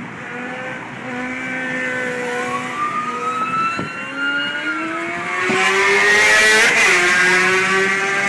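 Vehicle engines revving, their pitch rising and falling, then one vehicle passing close and loud about six to seven seconds in, its pitch dropping sharply as it goes by.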